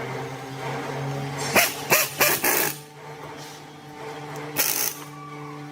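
A dog barking about four times in short bursts, over a steady low hum.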